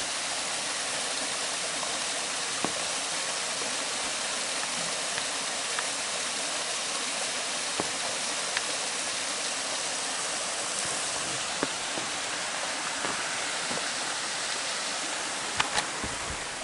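Mountain stream water rushing steadily, with a few scattered sharp ticks.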